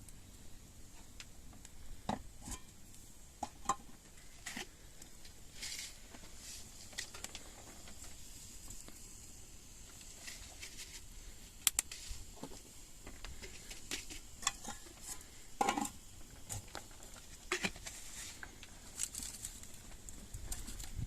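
Scattered light taps, clicks and rustles, irregular and mostly faint, with a few sharper knocks, over a quiet steady background with a faint high hiss.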